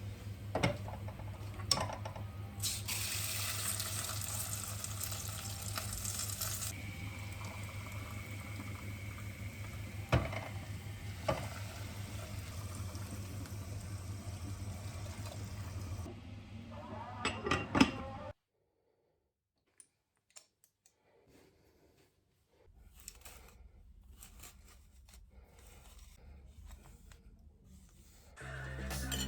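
Kitchen tap running into a sink for about four seconds, with dishes clinking and knocking now and then. About two-thirds of the way through the sound cuts off abruptly to near silence, followed by faint scattered noises.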